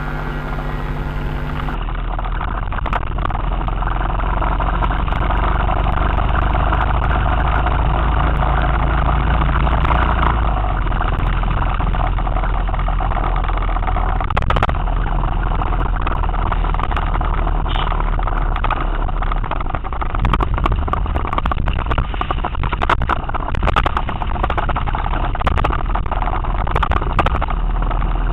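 Motorcycle engine running steadily on the road, with a constant rush of wind and road noise and a few sharp clicks scattered through the second half. A sitar tune cuts off about two seconds in.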